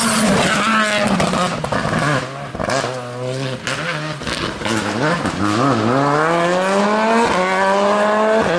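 Rally car engine on a special stage. For the first few seconds the revs rise and fall with throttle blips through a corner, then they climb steadily for about three seconds as the car accelerates away.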